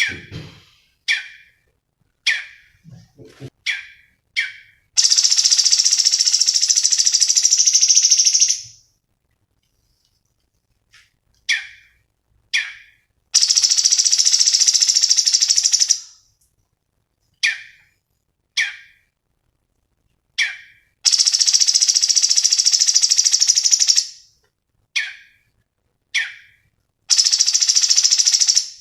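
Cucak cungkok songbird singing: short, sharp, high chirp notes about once a second, alternating with four loud, rapid buzzing trills of about three seconds each.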